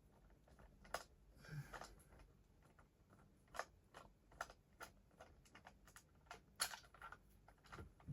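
Faint, scattered clicks and taps of small plastic toy trains and batteries being handled, against near silence.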